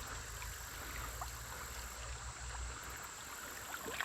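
Creek water running, a steady hiss, with a low rumble underneath that stops about three seconds in.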